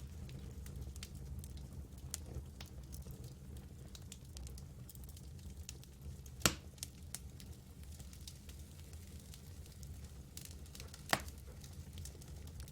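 Campfire burning: a steady low rumble of flames with scattered small crackles and two sharp pops, the first about halfway through and the second near the end.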